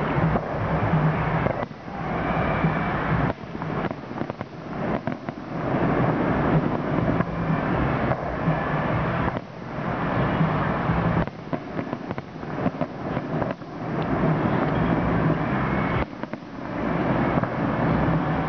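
Fireworks display: aerial shells bursting in quick succession, their bangs running together into a continuous din, with short lulls every few seconds.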